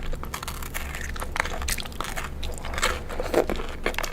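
Someone biting and chewing crunchy food, a dense run of sharp crackling clicks, over a steady low hum.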